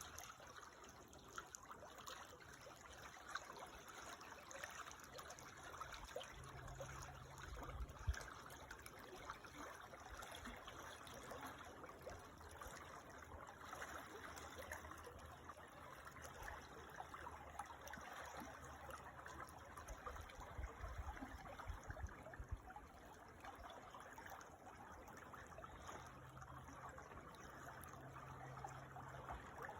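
Creek water trickling and flowing steadily, faint. A low hum and rumble comes and goes underneath it.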